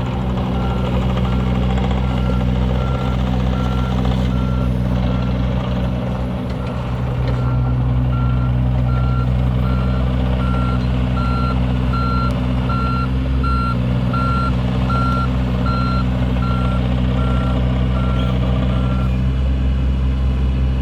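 John Deere 26G mini excavator's diesel engine running steadily, with its travel alarm beeping at an even pace while it moves; the beeping stops near the end.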